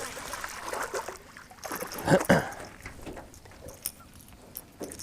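Water splashing and trickling beside a jon boat as a small largemouth bass is brought in, with a louder splash about two seconds in.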